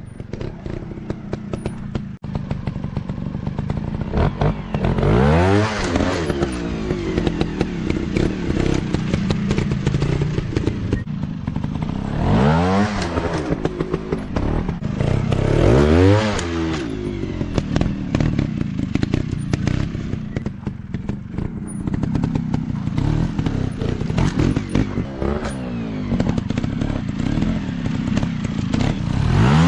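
Off-road dirt bike engine running continuously, revving up hard and dropping back several times, with clattering and knocking mixed in.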